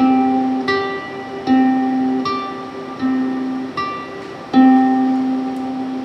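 A plucked string instrument playing single ringing notes, a new note plucked about every three-quarters of a second; about four and a half seconds in, a louder note is struck and left to ring out.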